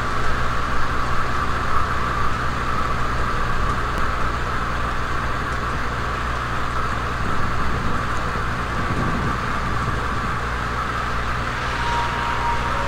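Steady outdoor background rumble and hiss with no distinct events. About twelve seconds in, a faint steady tone begins: the return of the unexplained drawn-out 'strange sound' that came at intervals.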